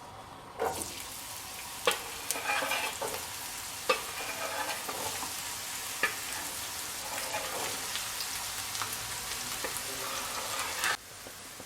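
Chopped onion and garlic sizzling in hot olive oil, with a few sharp clicks along the way; the sizzle cuts off suddenly near the end.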